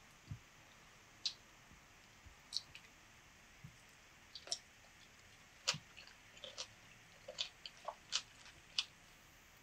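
Faint, scattered wet clicks and squishes of a metal fork cutting into a soft milk agar pudding, then of a bite of kiwi and pudding being taken and chewed.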